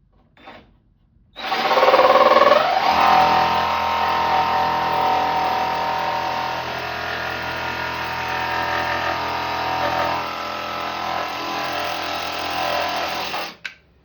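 Electric jigsaw cutting a straight line through a panel for an electrical box opening, running steadily for about twelve seconds and stopping suddenly near the end.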